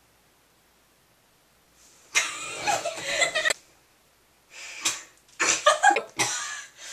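Near silence for about two seconds, then several short, loud, breathy bursts of a girl's voice.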